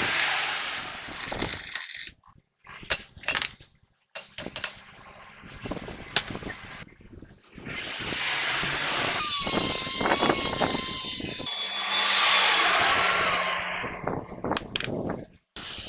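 Workshop tool work on truck parts, cut together in short clips: a few sharp metal clinks, then a power tool runs loudly for about three seconds with a hissing, whining sound before dying away.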